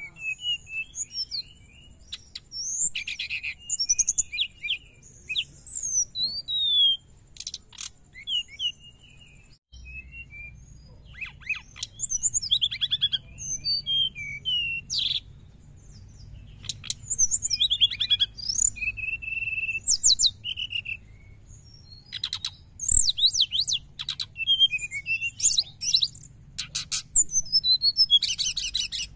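Brown-chested jungle flycatcher singing busily, phrase after phrase of quick twittering chirps and trills in a rapid, excited stream, with short gaps between phrases.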